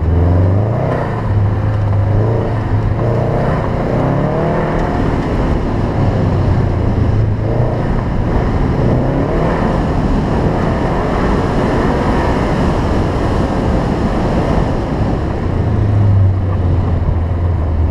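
2007 Subaru WRX wagon's turbocharged flat-four engine revving up and down repeatedly as it is driven hard, over the rush of tyres on dirt and grass. The engine note settles into a steadier low hum near the end.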